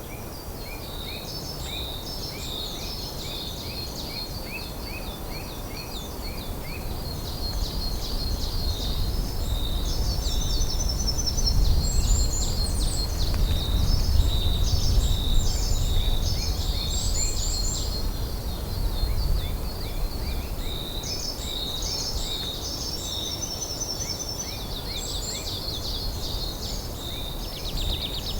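Several small songbirds singing: rapid high trills and repeated chirps. Under them is a low rumble that swells from about eight seconds in, is loudest a few seconds later and fades again.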